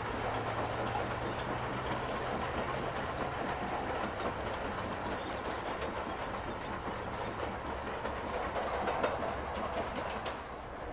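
Train running along the line and moving away: a steady rumble with repeated clicks of wheels on the rails, fading a little near the end.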